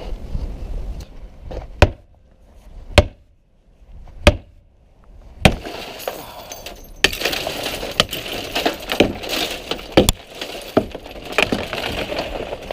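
A police car's window glass, scored beforehand with a glass cutter, being struck: four separate sharp blows in the first half, then the glass breaking, with a long run of crunching and clinking as pieces give way, broken by several harder hits.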